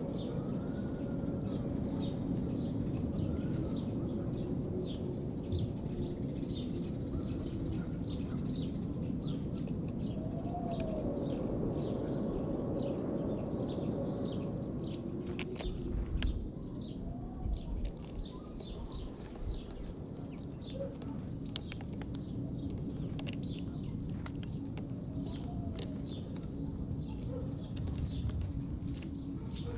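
Sparrows chirping busily at a feeder, a steady stream of short chirps, with a loud run of about eight quick high notes about five seconds in. A few low, arching calls come every several seconds.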